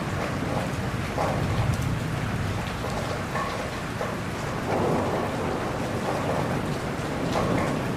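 Steady rain falling and pattering on surfaces, with a low thunder rumble underneath, strongest between about one and two seconds in.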